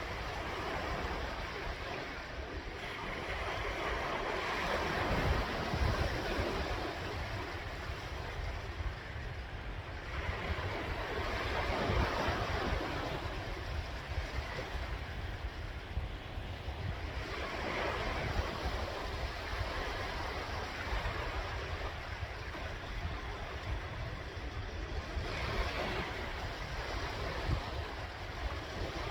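Sea waves breaking and washing onto the shore, a steady surf noise that swells every several seconds as each wave comes in, with low wind rumble on the microphone.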